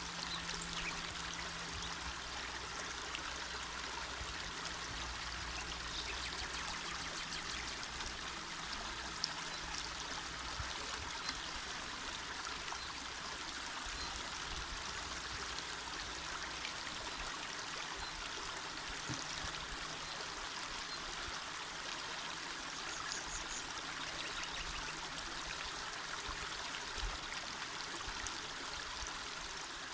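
Small mountain river flowing, a steady, even rush of water.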